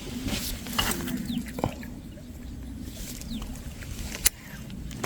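Birds calling in short falling chirps, with a sharp knock about four seconds in.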